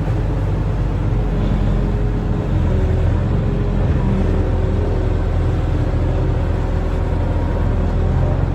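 Barge-mounted excavator's diesel engine running steadily under working load, its low drone stepping slightly in pitch a few times as the load changes.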